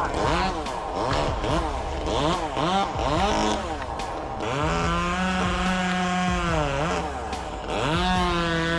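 Two-stroke chainsaw engine revved up and down in quick blips, several times in a row. It is then held at full throttle for a couple of seconds, drops off briefly, and revs back up to a steady high pitch near the end.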